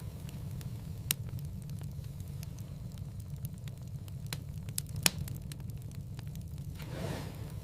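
Wood fire in a fireplace crackling: a steady low rumble with scattered sharp pops, the loudest about five seconds in, and a soft swish of flame near the end.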